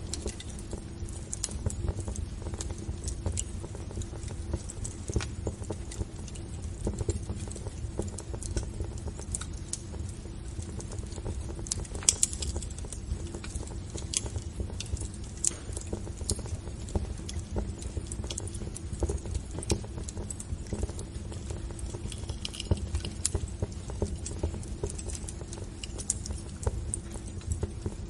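Wood fire in a fireplace crackling, with irregular pops and snaps over a steady low rumble; one sharper pop about twelve seconds in.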